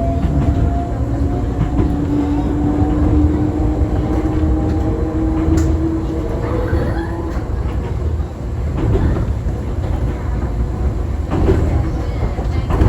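Enoshima Electric Railway train running, heard from the front of the car: a steady low rumble with occasional rail clicks, and the traction motors' whine slowly rising in pitch over the first half as the train gathers speed.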